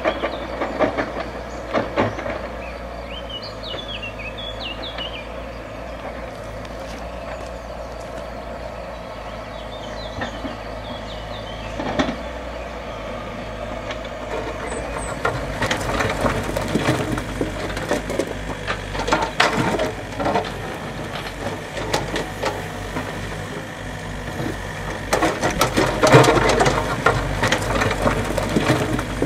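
Construction work on a stone-and-timber channel: a heavy machine's engine running steadily under knocks, clatter and scraping of stone and wood, getting busier and louder in the second half. A few faint high chirps about three to five seconds in.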